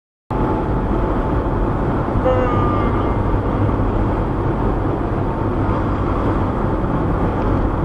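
Steady road and engine noise of a moving car heard from inside the cabin through a dash cam's microphone, cutting in abruptly just after the start.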